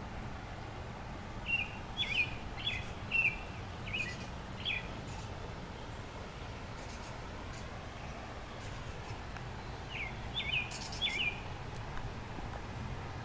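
A person imitating bird calls: short, high chirps that drop quickly in pitch, about six in a quick run in the first five seconds and three more later, over a steady low background rumble.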